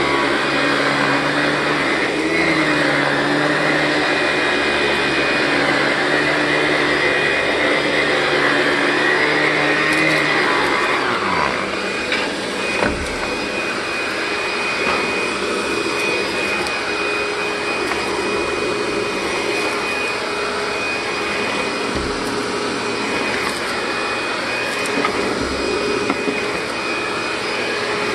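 Commercial dual-motor upright vacuum running steadily while being pushed over carpeted entry mats. About eleven seconds in, its motor note slides down and it gets a little quieter, with a few short low knocks afterwards.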